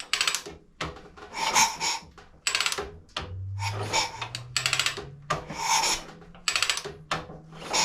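Royal Enfield kickstart lever being worked through its stroke over and over, each kick giving a short rasping ratchet sound, about once a second. This is a function test of a freshly fitted kickstart, and it is working as it should.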